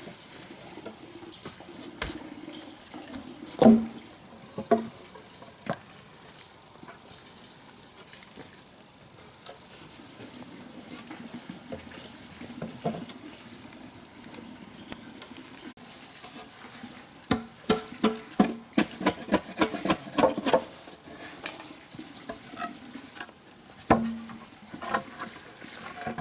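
Scattered sharp knocks and taps, with a quick run of knocks, several a second, from about 17 to 21 seconds in.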